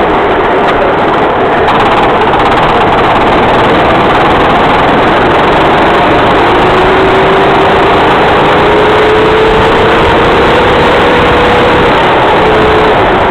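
Racing kart engine running loud and steady under heavy noise, its pitch climbing slowly over several seconds in the second half and then dropping back.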